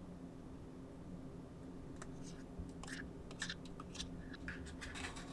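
Faint low room hum, then from about two seconds in a run of small, irregular clicks and scrapes of objects being handled.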